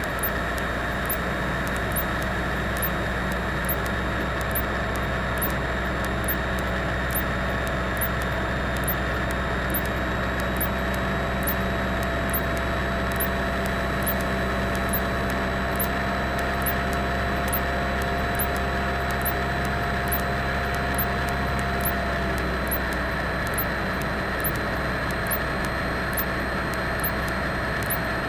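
Cessna 172's piston engine and propeller running steadily in flight, a constant drone with a faint high ticking about once a second. Some of its tones shift slightly about three-quarters of the way through.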